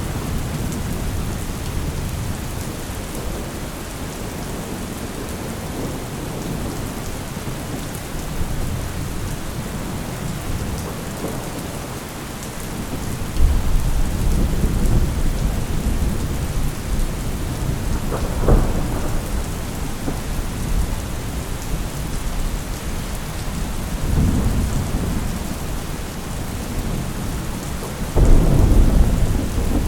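Thunderstorm: steady rain with thunder rumbling several times. A low rumble builds a little before halfway, a sharper crack follows a few seconds later, and a heavy rumble comes near the end.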